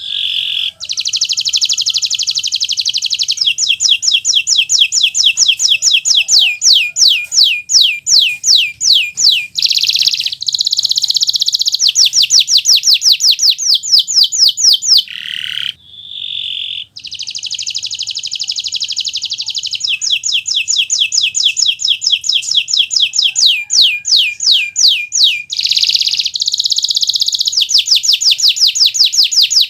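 Kenari Nusantara canary in full, continuous song ('gacor'): long phrases of fast, high trills and rapidly repeated notes. There is a short break about halfway through before the next phrase starts.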